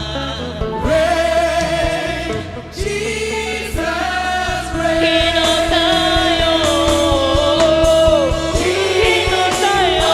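Gospel worship music: a choir singing long held notes over a band with a steady beat.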